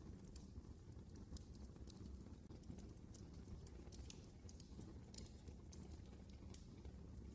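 Wood fire burning in a fireplace: quiet, irregular crackles and small pops over a low steady rumble of the flames.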